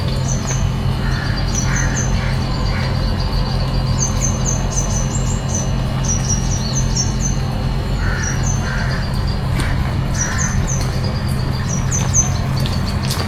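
Crows cawing in two short bursts of several caws, about a second in and again past the middle, while small birds repeat quick high chirps. Underneath runs a steady low rumble and hiss.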